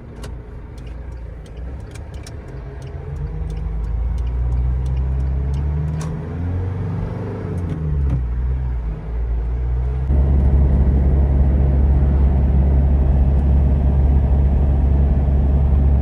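GAZelle Next van driving, its engine note rising and falling as it pulls away and accelerates, with a few light clicks in the first half. About ten seconds in, the sound jumps to a louder, steady low rumble of the van running at speed.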